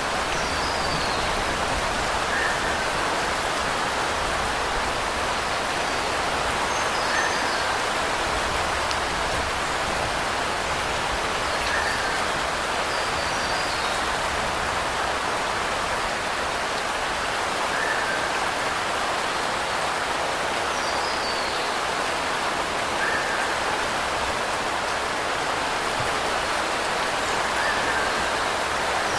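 Steady, even rainfall. Faint short high chirps recur every few seconds.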